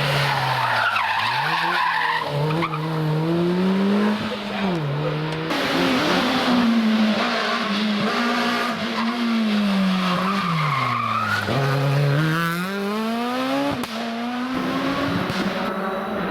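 Rally car engine revving hard, its pitch climbing and dropping again and again through gear changes and lifts, with tyres squealing through the corners.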